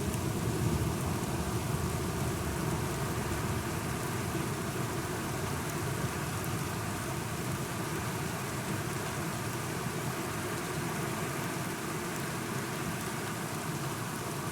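Steady rain falling, with a low rumble of thunder easing off over the first few seconds.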